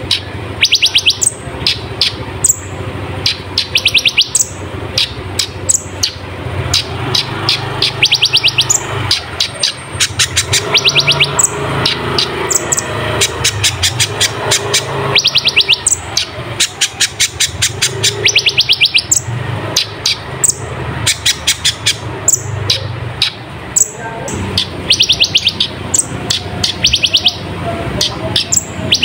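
Kolibri ninja sunbird singing hard, over and over, in quick rattling trills of sharp high notes, each burst about a second long. A steady low hum runs underneath.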